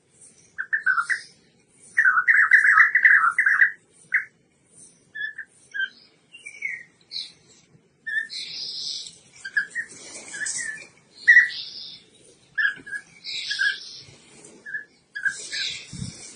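European bee-eaters calling: short repeated notes, with a dense run of calling about two seconds in and higher chattering over much of the rest.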